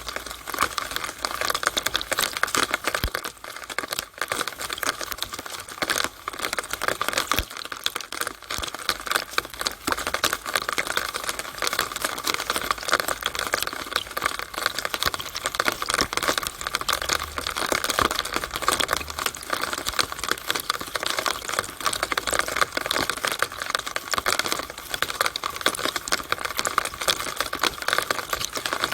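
Rainwater running through a downspout: a steady, dense patter of small drips and splashes.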